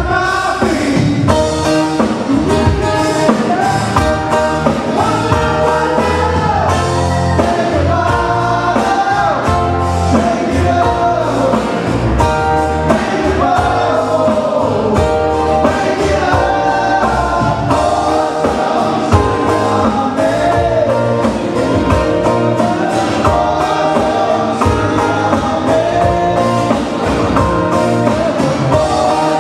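Live Hawaiian band playing a song with group singing over guitar, bass and a steady beat.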